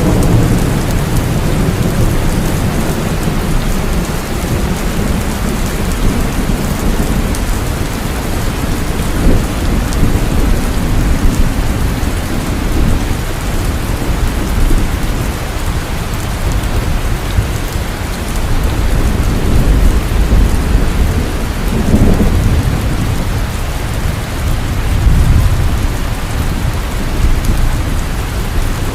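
Heavy, continuous rain with rolls of thunder rumbling low beneath it, swelling several times, most strongly around two-thirds of the way through.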